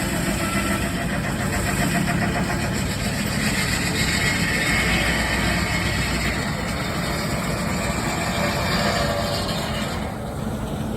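A sawmill belt-driven by a steam traction engine runs steadily while its blade cuts through a log. The high cutting noise drops away sharply about ten seconds in as the cut ends.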